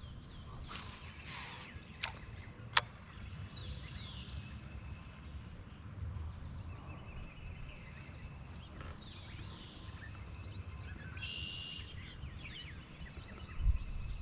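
Wind rumbling on the microphone, with bird calls chirping now and then. About a second in comes a swish, then two sharp clicks, the second one loud, from a baitcasting rod being cast and its reel engaging.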